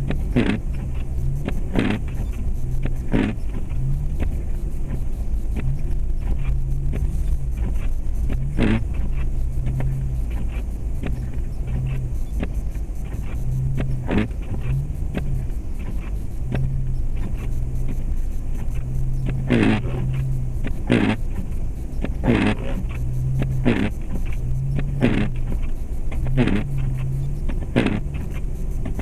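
Cabin sound of a 2004 Jeep Grand Cherokee with a 4.7-litre V8 being driven: a steady low engine and road rumble. Short swishing strokes come now and then, then repeat about every one and a half seconds through the second half.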